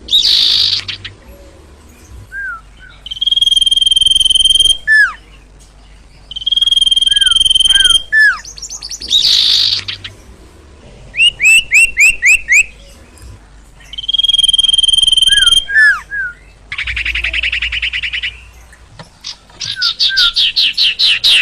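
A songbird the Indonesian bird keepers call sirtu or sirpo, singing loudly and excitedly in repeated phrases: long, steady high whistles alternate with short falling notes, bursts of rapid trills and a buzzy rattle about three-quarters of the way through.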